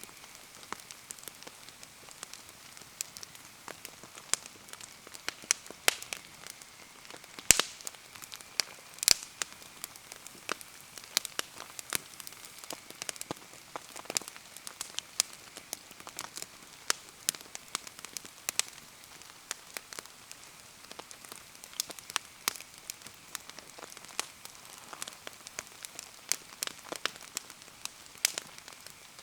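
Wood bonfire crackling and popping in steady rain, with the hiss of rainfall underneath. The snaps come at irregular intervals, and two louder pops land about seven and a half and nine seconds in.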